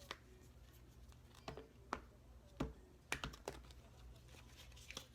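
Thick archetype cards being shuffled by hand: irregular soft clicks and taps of the card stock, a handful spread out and a quick cluster about three seconds in.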